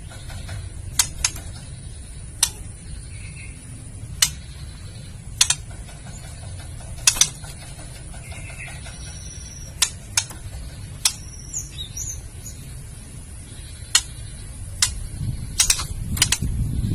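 Female white-rumped shama giving its harsh clicking 'kretekan' calls: sharp, irregular clicks about a second apart, with a few short faint notes between them. A steady low rumble lies underneath and grows louder near the end.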